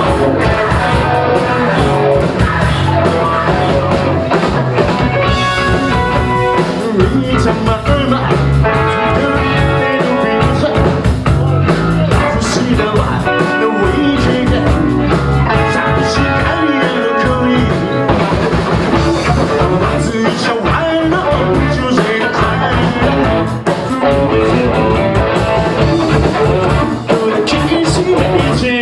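Rock band playing live: electric guitar, bass and drum kit, loud and steady, with a pitched melodic line standing out through the middle of the stretch.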